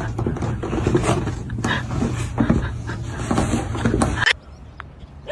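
A pet animal making loud, rough vocal sounds, cut off suddenly about four seconds in.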